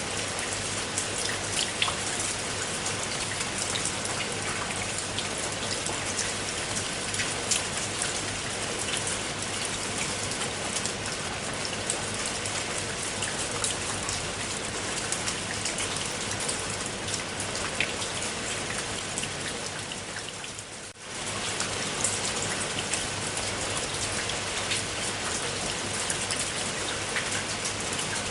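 Steady rain falling, with many individual drops ticking through the hiss. About three quarters of the way through it dips briefly and comes straight back.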